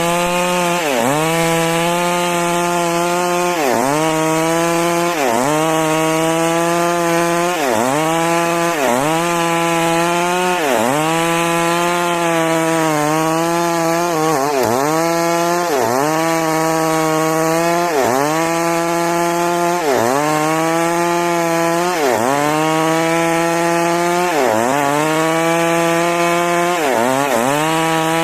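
Stihl MS 382 two-stroke chainsaw cutting lengthwise through a large trembesi (rain tree) log. Its engine note dips under load and recovers in a steady rhythm, about once every one and a half seconds.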